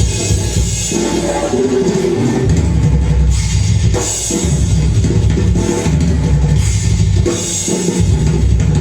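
Music: a drum kit playing a drum solo within a song, heavy on the bass drum.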